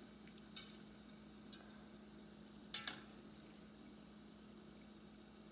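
Frozen samosas slow-frying in a saucepan of vegetable oil, a faint, gentle sizzle and bubbling. A metal spatula clicks lightly against the pot a couple of times, then gives a sharper double click about three seconds in.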